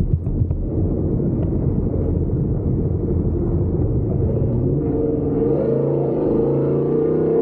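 Off-road truck engine under way on a dirt track: a rough low rumble, then the engine note climbs in pitch as it accelerates from about halfway through.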